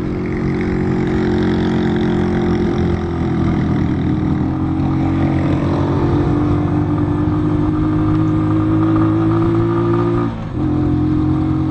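Keeway Cafe Racer 152's single-cylinder engine pulling under load up a climb, its note rising slowly as the revs build. About ten seconds in it dips briefly for a gear change, then pulls on.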